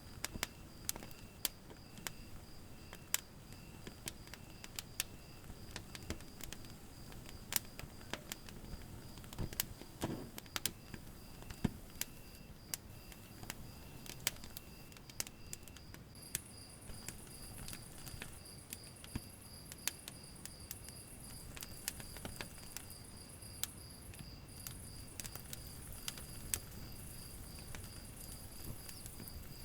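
Wood fire crackling, with frequent sharp pops of varying strength, over steady, evenly repeating chirping of crickets. A higher, shriller insect trill joins about sixteen seconds in.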